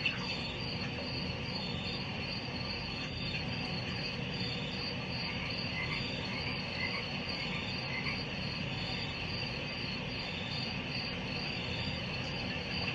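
Night-time chorus of steadily chirping insects and frogs calling in short, repeated notes, over a steady low hiss.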